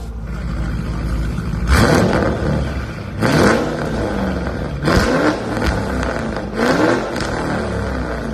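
Audi RSQ8's twin-turbo V8 running hard through a Capristo valved exhaust, with four sharp cracks about a second and a half apart, the engine note climbing in pitch after each one.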